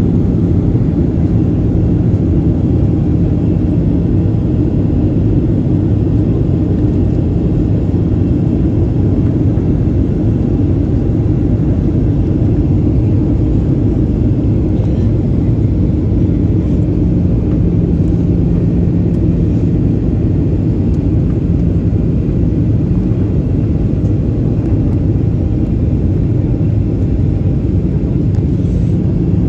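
Steady low rumble inside the cabin of a Boeing 737-800 airliner in flight: engine and airflow noise, unchanging throughout, with a faint steady hum under it.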